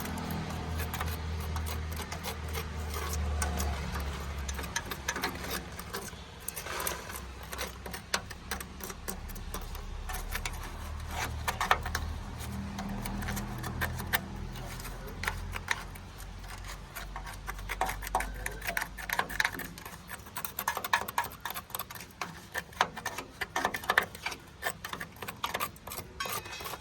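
Workshop noise: many quick irregular mechanical clicks and knocks over a low hum, thickening into sharper, denser clatter in the second half.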